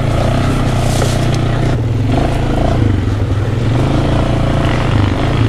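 Quad (ATV) engine running steadily while being ridden, its low hum wavering slightly as the throttle changes.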